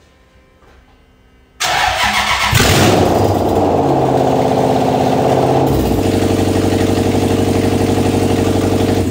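Toyota 3UZ-FE 4.3-litre V8 starting on its first start-up: about a second and a half in it cranks and catches abruptly, revs up briefly, then settles into a steady idle, its note changing slightly about six seconds in. It runs with no exhaust system fitted and no O2 sensors, and the owner says it doesn't run great.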